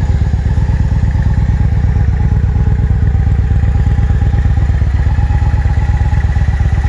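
A Victory Hammer S motorcycle's Freedom 106 V-twin engine idling steadily, with a fast, even low pulsing.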